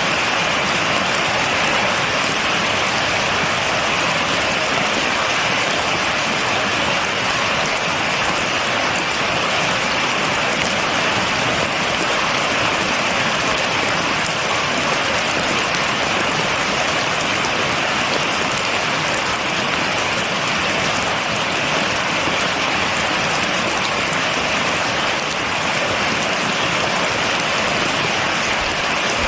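Steady rain falling, an even hiss with fine patter of drops and no thunder.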